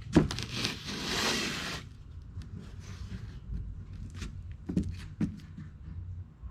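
Workshop handling while measuring and marking out a piece: a sharp click, then about a second of scraping rasp, then quieter rubbing and two light taps near the end.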